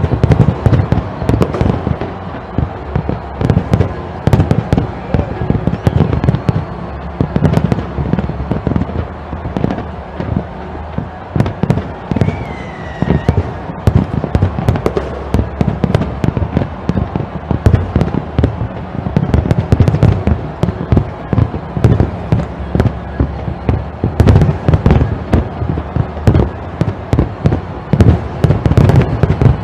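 A fireworks display going off in a dense, continuous barrage: many sharp bangs and deep booms overlapping irregularly, with crackling bursts in between.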